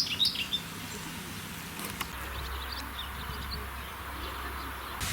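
Small songbird chirping in a quick run of high notes at the very start, then a few fainter chirps over a steady outdoor hiss; the background changes abruptly about two seconds in.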